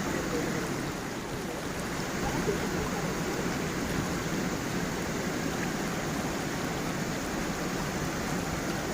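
Stream water running steadily over stones: an even rushing with faint small gurgles.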